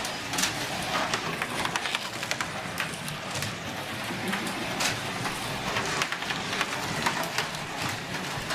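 Digital slot cars racing on a plastic track: their small electric motors running with a steady hum and many irregular clicks and rattles as the cars run over the track.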